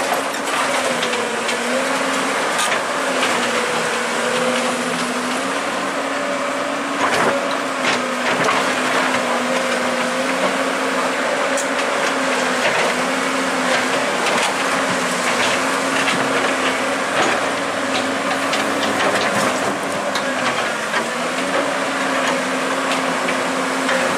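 Heavy machinery engine running steadily under load, a held tone that wavers slightly in pitch throughout, with scattered knocks and clanks.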